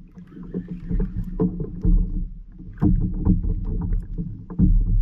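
Water slapping against a fishing kayak's hull, with irregular knocks and clicks and several heavier thumps, and wind buffeting the microphone.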